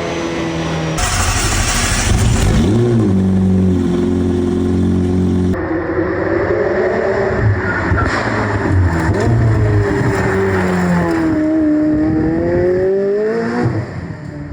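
High-performance sports car engines revving and accelerating, in several short clips joined by hard cuts about one second and five and a half seconds in; the engine pitch climbs and falls with each rev and gear change.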